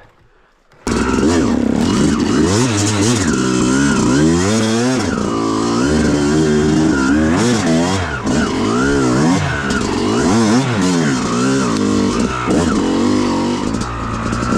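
Dirt-bike engine revving up and down as the bike is ridden. It cuts in suddenly about a second in and rises and falls in pitch throughout.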